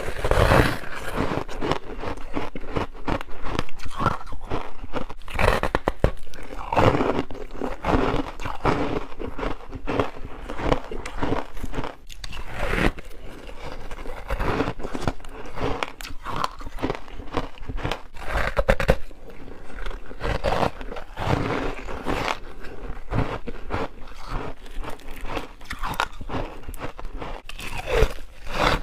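Freezer frost soaked in passionfruit juice being bitten and chewed, in a dense, continuous run of crunching.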